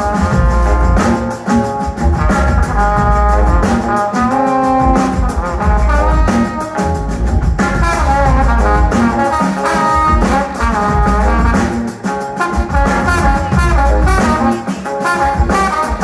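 Live band playing an upbeat instrumental groove: a horn section of saxophones, trombone and trumpet plays lines over drums, percussion, bass and guitars with a pulsing bass beat.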